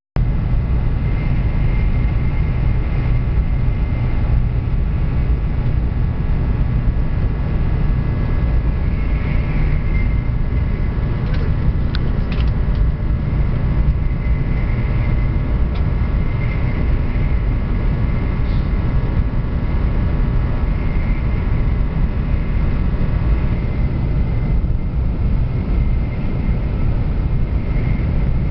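Train running with a steady rumble and a faint steady whine that stops a little over 23 seconds in; a few light clicks about halfway through.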